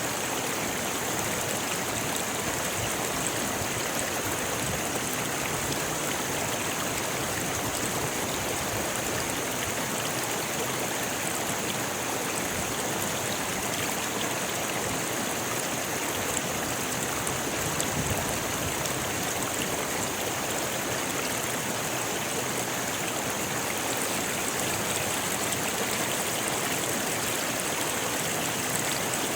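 Rocky river flowing over stones: a steady, even rush of water.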